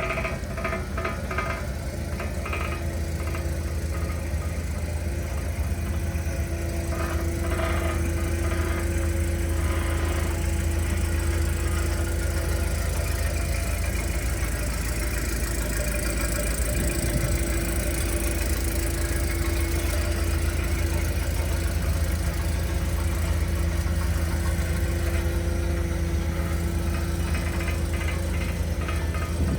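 Gas (LPG) engine of a Samuk R25L counterbalance forklift running steadily at idle, with a deep even hum. There is some light clicking and rattling in the first several seconds.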